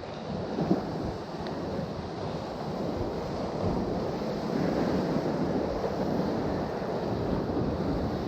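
Sea waves washing on the shore with wind buffeting the microphone, the noise swelling and easing; a short knock comes under a second in.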